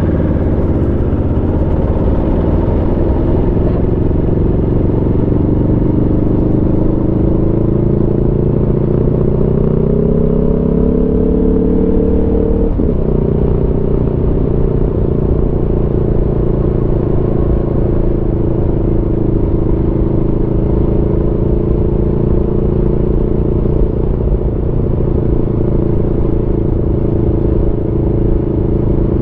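Aprilia Tuono V4 motorcycle's V4 engine under way, its pitch climbing slowly for about twelve seconds as it pulls in one gear, then dropping sharply at once, as on an upshift, and running steady after that.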